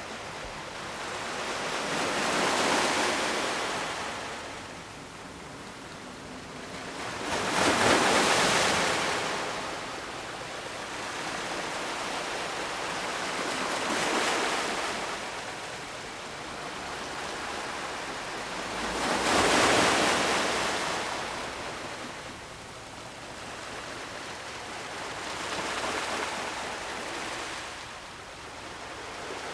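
Ocean surf: waves breaking and washing up the shore, swelling and fading about every five to six seconds, with the biggest waves about eight and twenty seconds in.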